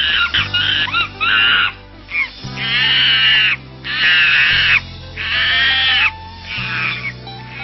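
Dubbed-in monkey sound effects: a string of loud, pitched monkey calls, each about a second long, four long ones in the second half, over music with steady bass notes.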